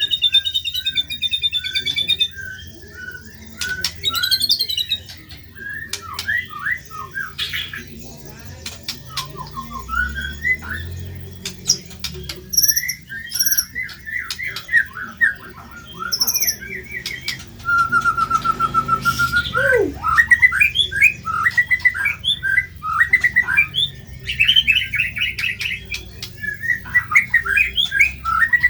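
White-rumped shama (murai batu) singing a long, varied song: rapid chirps, trills, harsh squawk-like notes and whistles, one phrase after another with short gaps.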